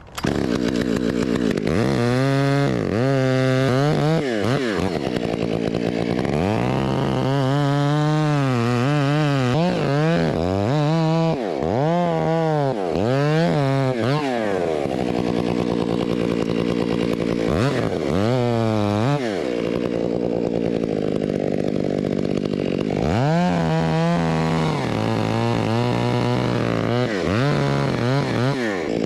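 Two-stroke chainsaw running, its engine speed repeatedly climbing and falling back, with steadier stretches in between.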